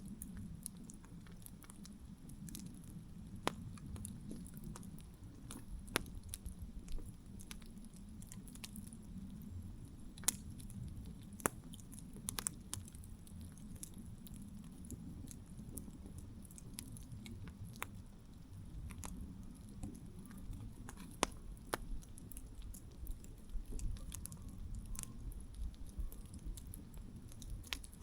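Wood campfire burning: a low steady rumble of the flames with irregular sharp crackles and pops from the burning wood, a few of them louder than the rest.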